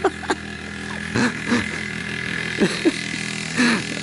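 Small 50cc two-stroke engine on a drift trike running steadily, with several short, sharp sounds over it.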